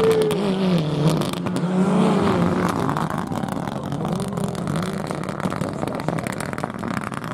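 Rally car engine revving hard along the stage, its pitch climbing and dropping again several times with the gear changes, with a burst of sharp crackles about a second in.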